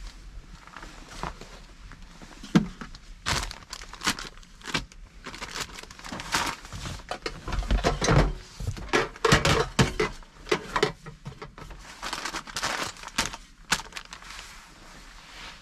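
Crinkly packaging or a plastic bag being handled and rustled, with scattered small clicks and knocks, heard inside a car cabin.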